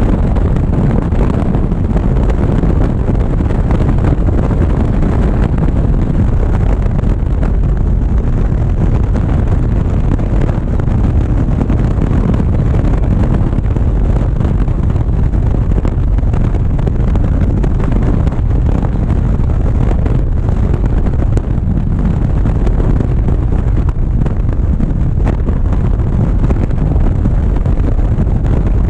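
Loud, steady wind rush over an action camera's microphone on a moving motorcycle, with the motorcycle running underneath.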